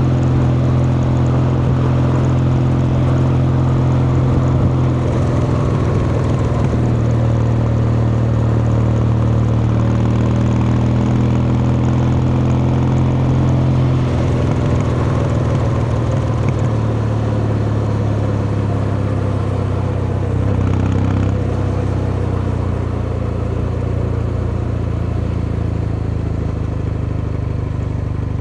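Kawasaki Meguro K3's air-cooled vertical-twin engine and exhaust running steadily, the engine note shifting in pitch several times as revs change.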